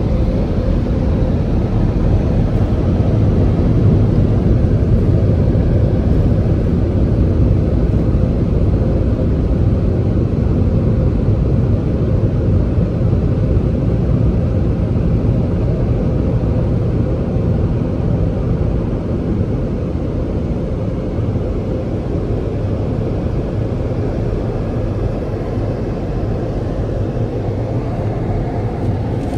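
Touchless car wash air dryers blowing steadily over the car, heard muffled from inside the cabin.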